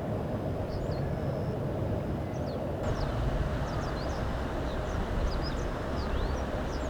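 Steady low rumble with many short, high, thin bird chirps over it, more frequent from about halfway through.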